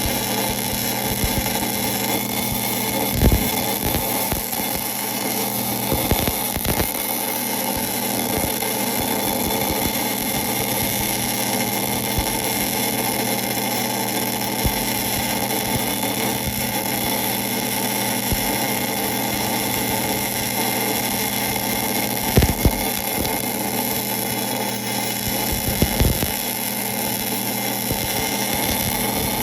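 1966 LeBlond geared-head lathe running steadily, its gear train giving a constant hum, with a few brief sharp knocks spread through it.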